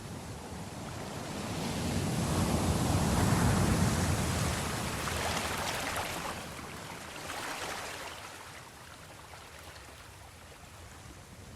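Ocean waves on a shore: a wave swells and breaks a few seconds in, its wash fizzing for several seconds, a smaller surge follows, then it settles back to a low steady wash.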